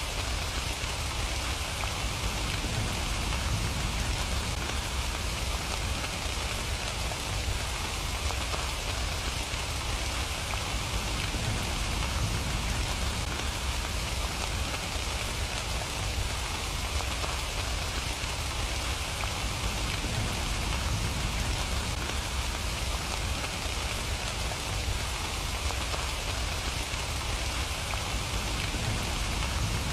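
Steady rain falling without a break, an even hiss of drops with a low rumble beneath.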